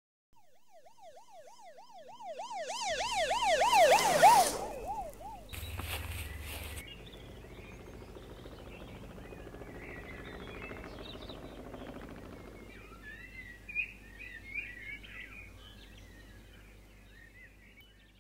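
Police siren sound effect: a fast rising-and-falling wail that swells, then fades away about five seconds in. Short high chirps come in near the end.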